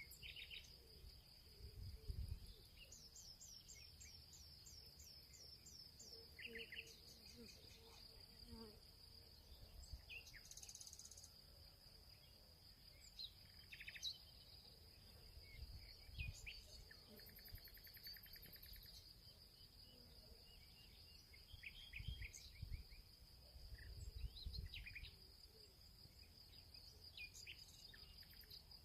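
Field ambience: a steady, high-pitched insect drone, like crickets, with scattered bird chirps and calls over it, including a quick run of repeated falling notes a few seconds in. Now and then there is a low rumble.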